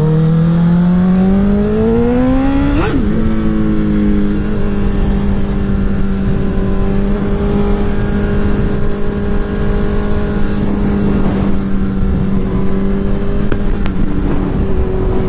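Honda CBR1000RR inline-four sport-bike engine accelerating hard up an on-ramp, its note climbing for about three seconds. It then drops sharply at an upshift and runs at a steady, even pitch while cruising.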